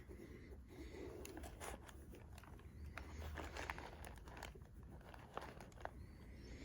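Faint crinkling with scattered light clicks and taps as new suede chukka boots and their packing are handled.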